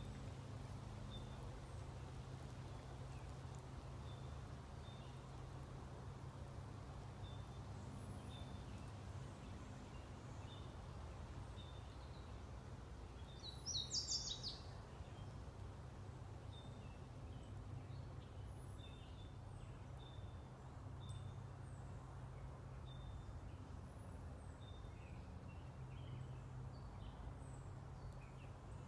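Faint woodland ambience: small birds giving short high chirps again and again, over a steady low hum. About halfway through there is one louder, brief high-pitched sound.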